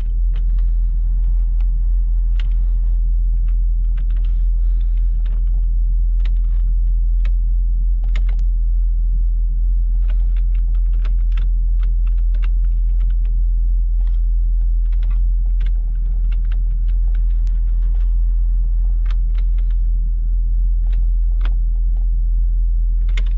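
Hummer H2's LQ4 V8 idling steadily, heard as a low rumble inside the cab, with scattered sharp clicks of dashboard and door switches being pressed to test the power windows and mirrors.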